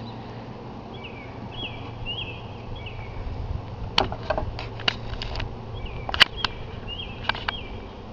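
Honeybees buzzing around an open hive as a steady low hum, with a bird's short repeated chirps over it. From about four seconds in come a series of sharp clicks and knocks, the loudest just past six seconds.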